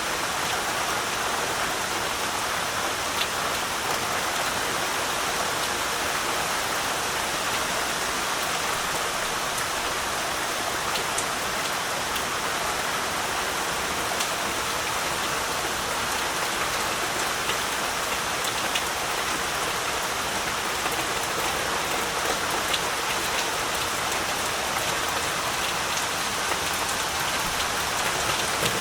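Heavy, steady rain falling, a dense even hiss with scattered individual drop ticks.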